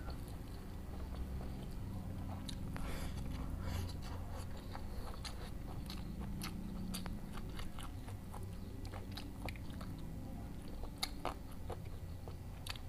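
Close-miked chewing and biting of smashed fried tofu and tempeh with raw vegetables, with many small crunchy clicks scattered throughout.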